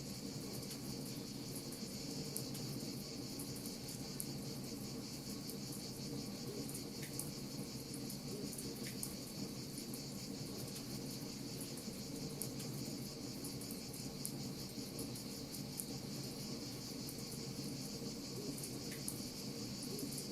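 Wood fire crackling with scattered small sharp pops, over a steady high chirring of crickets and a low, even rush.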